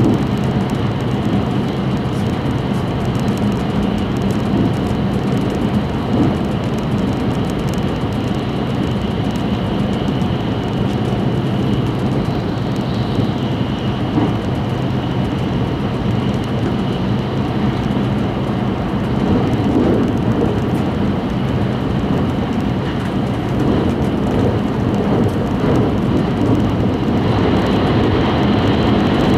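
Running noise of an E5-series Shinkansen at speed heard inside the passenger cabin: a steady low rumble of wheels and air with a faint high whine. Near the end the sound grows brighter as the train runs past a covered station.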